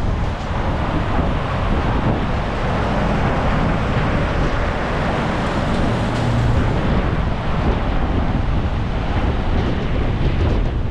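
Storm-force wind buffeting the microphone in a loud, continuous rush with no let-up.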